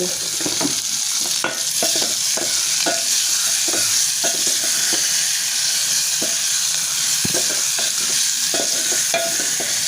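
Beef frying in a lot of hot oil in a metal pot: a steady loud sizzle, with scattered scrapes and clicks of stirring.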